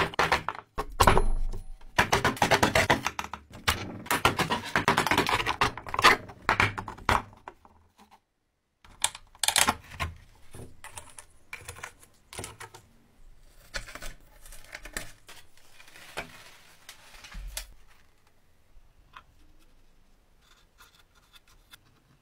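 Rough scraping strokes on an old wooden game board, repeated for several seconds. After a short break about eight seconds in come scattered light clicks and knocks, which thin out and fade.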